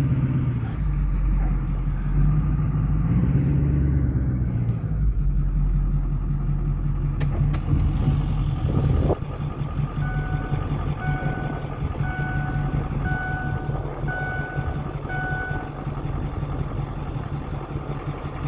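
Vehicle engine running steadily, heard from inside the cab, with a reversing beeper sounding six times, about once a second, in the second half.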